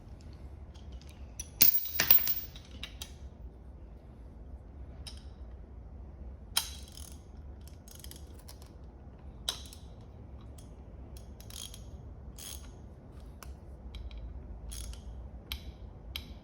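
Scattered metallic clicks and clanks of hand work on a motorcycle front fork, with a loud clatter of several knocks about two seconds in, as the spring is pushed down and the fork is closed up after new seals.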